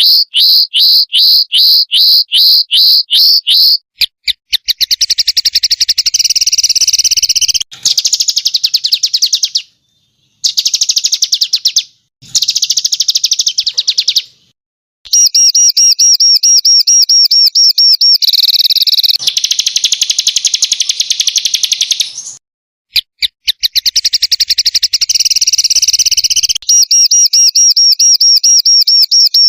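Songbird training recording ('masteran') of small birds singing harsh, rapid 'shooting' notes. It opens with evenly spaced high chirps, about four a second, and moves into fast, dense trills. The clips are spliced with abrupt cuts to silence between them.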